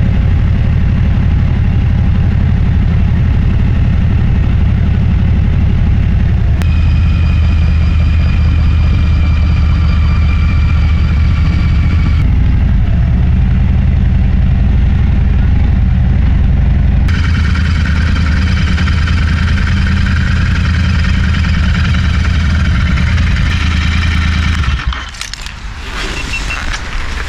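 Motorcycle engine running under way with a deep, steady rumble. A high whine comes and goes in stretches, and near the end the engine noise drops away suddenly.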